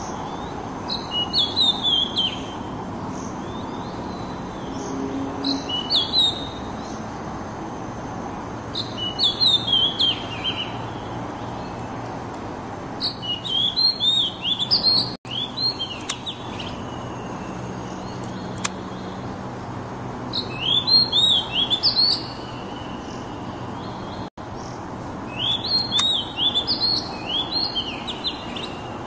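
Oriental magpie-robin singing: short phrases of quick, clear whistled notes repeated every few seconds over a steady low background hum.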